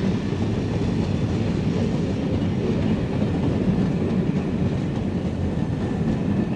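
Train rolling by with a steady rumble of wheels on rail.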